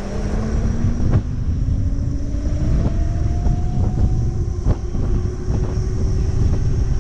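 Wind rumbling on the microphone of a moving electric motorbike, with the motor's thin whine climbing slowly in pitch as the bike speeds up, then holding steady. A few light knocks.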